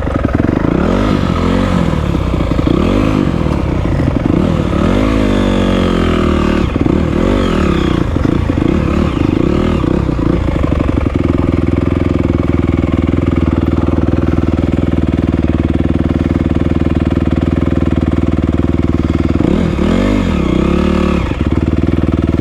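Honda CRF250R dirt bike's single-cylinder four-stroke engine, revving up and down repeatedly for about the first ten seconds, then running at a steady speed, with a couple of quick revs near the end.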